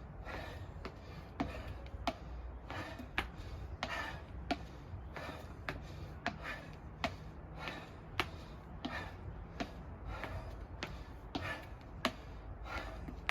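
Feet stepping up onto and down from a chair during dumbbell step-ups. Sharp knocks come roughly once a second, with short hissy breaths between them, over a steady low hum.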